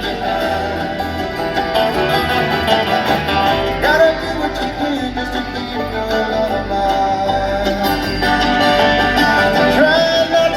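Live bluegrass band playing, with a singer's lead vocal over acoustic guitar and banjo.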